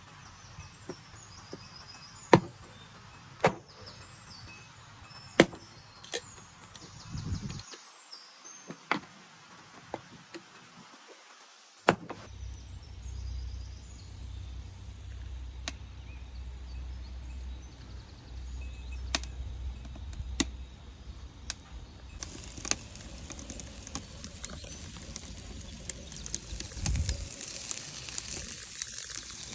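Sharp, irregular knocks of a knife chopping on a board, with birds chirping. From about two-thirds of the way through, a steady sizzle of food frying in a pan over a wood fire.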